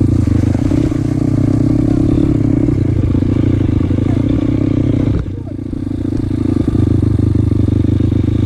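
Motoland LT250 enduro motorcycle's single-cylinder engine running steadily, dipping briefly about five seconds in.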